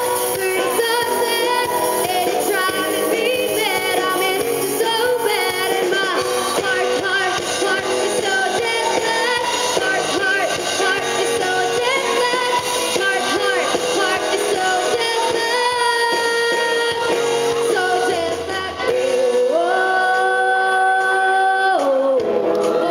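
Amateur rock band playing live, a song section with no clear lyrics. A few long held notes come near the end, then the music changes.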